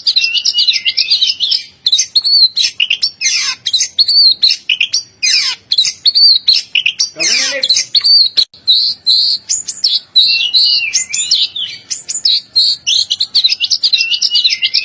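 Oriental magpie-robin (kacer) singing a loud, continuous, varied song of high whistles and chirps, with one short arched whistle repeated again and again. About halfway through there is a lower, falling sound.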